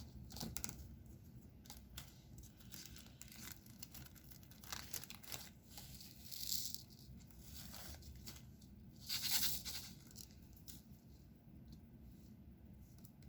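Diamond painting handling: small scattered clicks and taps of resin drills being picked up and pressed onto the canvas, with two louder rustling swishes about six and nine seconds in.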